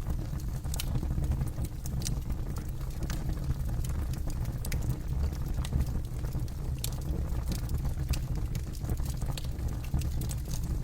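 Campfire crackling: wood pops and snaps at irregular moments over a steady low rumble.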